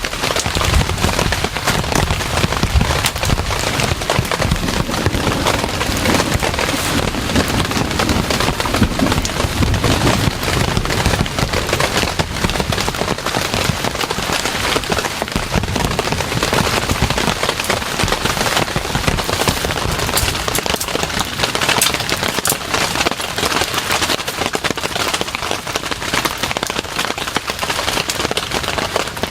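Heavy rain falling steadily, a dense rapid patter of drops striking a surface.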